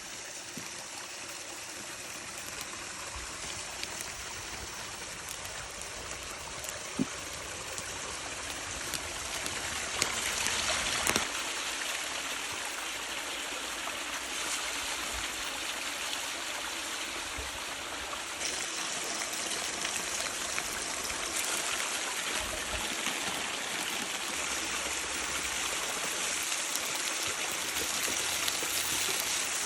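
Pork neck sizzling in a pan over a campfire, a steady hiss that slowly grows louder, with a few sharp pops from the fat about a third of the way in.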